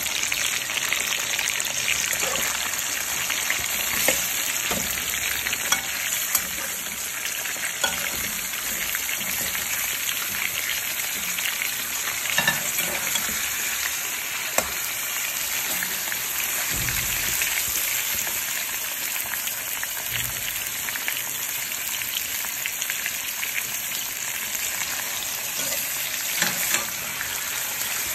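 Raw chicken pieces sizzling in hot oil with garlic and ginger in a stainless steel pan: a steady frying hiss. A slotted spatula stirring the pieces makes scattered sharp clicks and scrapes against the pan.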